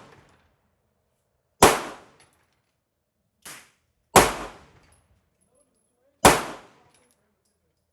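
Pistol shots fired one at a time in slow, aimed fire: three loud cracks about two seconds apart, each with a short echoing tail, and a fainter crack between the first two.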